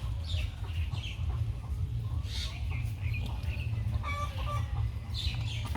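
Chickens clucking, many short scattered calls, with a few longer pitched calls about four seconds in, over a steady low rumble.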